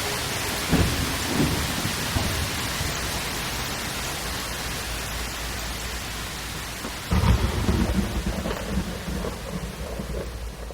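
Steady rain falling, with a roll of thunder rumbling in about seven seconds in and dying away toward the end.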